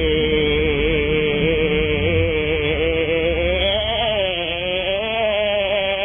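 A long, sustained pitched drone. It holds steady at first, then wobbles up and down in pitch from about halfway through.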